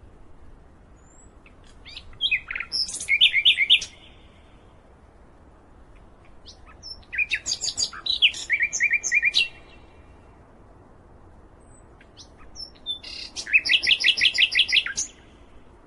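A songbird singing a short phrase three times, about five seconds apart, each phrase a quick run of high repeated chirping notes, with a faint hiss in the pauses.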